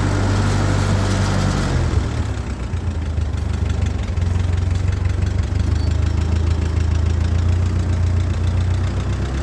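1948 Ford 8N tractor's four-cylinder flathead engine running; about two seconds in its note drops as the engine slows, then it runs on steadily at the lower speed.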